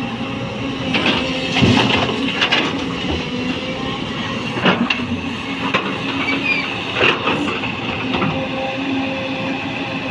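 A JCB 225 LC tracked excavator's diesel engine running steadily under load, with several sharp clanks and knocks from the bucket and boom as it loads soil into a dump truck.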